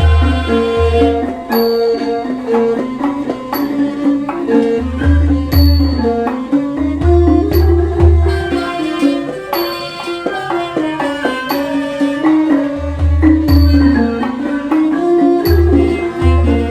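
Thai classical ensemble playing a traditional overture: melodic instruments over groups of deep drum strokes, with a high small-cymbal tick keeping time about once a second.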